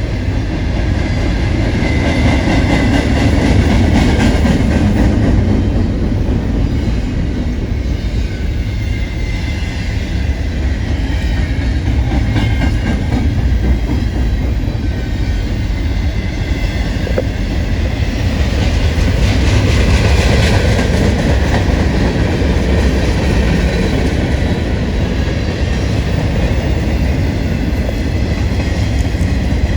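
Long manifest freight train rolling past, its freight cars' wheels clattering steadily over the rails, swelling and easing slightly at times.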